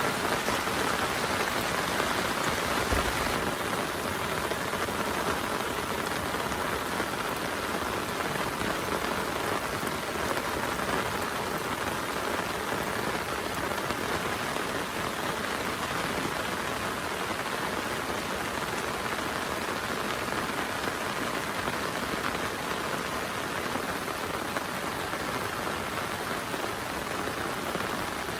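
Heavy rain falling steadily, with a brief low thump about three seconds in.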